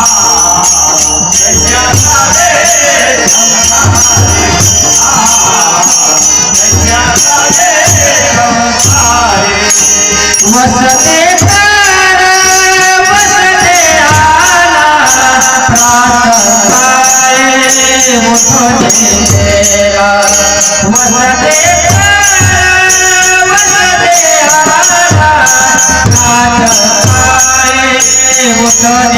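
A Marathi abhang, a devotional song, sung over steady jingling percussion and regular drum beats.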